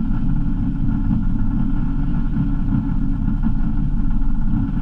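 Lada Samara rally car's engine running steadily while the car stands still, heard from inside the cabin as an even low rumble.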